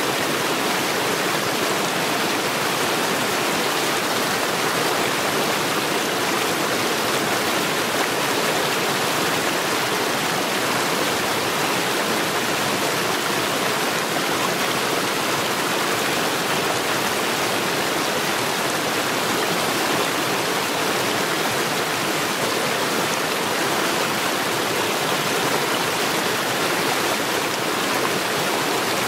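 Mountain stream rushing over stones, a steady, even rush of water.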